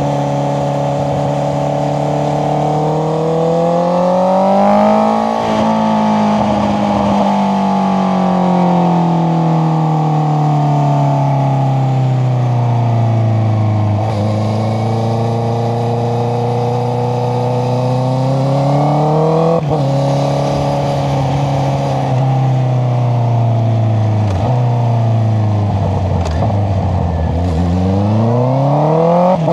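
Honda CBR650R's inline-four through an Akrapovic exhaust with the dB killer removed, revving up and down while riding: the engine pitch climbs, falls slowly as the revs drop, climbs again, and rises steeply near the end. There are brief breaks in the note about two thirds of the way through, typical of quick gear changes.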